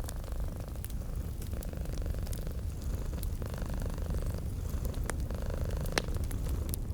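A domestic cat purring steadily and close, in slow cycles of a second or two with each breath, over the crackle of a wood fire. The fire gives scattered sharp pops, the loudest about six seconds in.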